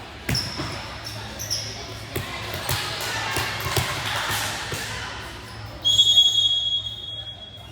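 Volleyball rally in a gym: several sharp ball hits and thuds, with spectators' voices swelling in the middle. Near the end a referee's whistle is blown, one long steady blast of nearly two seconds, the loudest sound.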